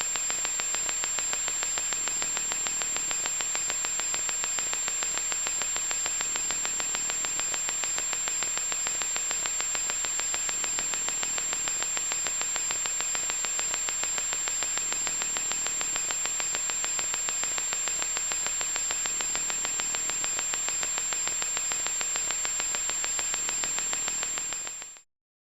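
Loud electronic static: a harsh, even hiss with a fast fine crackle through it and a steady high-pitched whine on top. It cuts off suddenly near the end.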